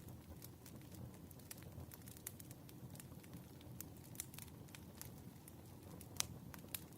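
Wood fire crackling faintly: scattered small snaps over a low steady rumble, with one louder pop about six seconds in.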